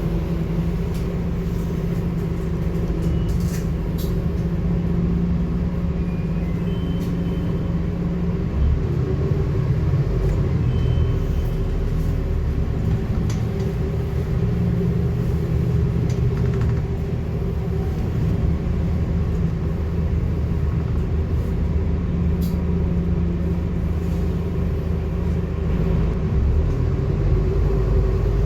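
Scania N230UD double-decker bus's nine-litre five-cylinder diesel engine running under way, heard as a steady low drone and rumble, with the engine note rising near the end as the bus accelerates.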